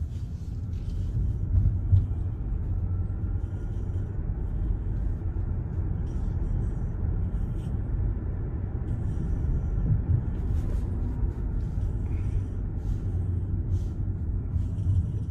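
Road and tyre noise inside the cabin of a moving Tesla: a steady low rumble.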